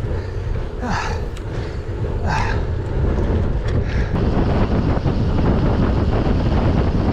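Wind buffeting a bike-mounted GoPro microphone while cycling, a steady rumble that gets louder about three seconds in as speed picks up, with two short puffs of noise about one and two and a half seconds in.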